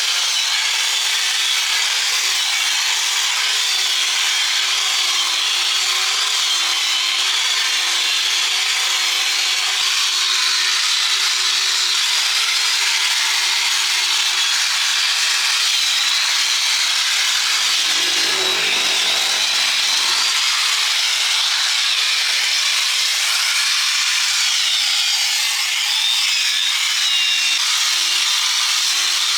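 A handheld power tool working steadily on metal, a continuous abrasive grinding noise with a faint wavering hum beneath it.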